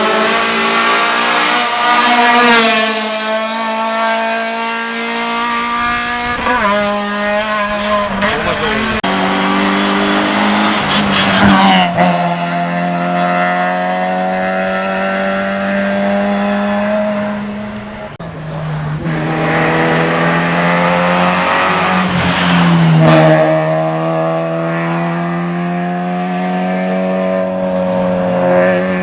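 Race car engine at high revs, accelerating hard through the gears, its pitch climbing and dropping back at each of several upshifts.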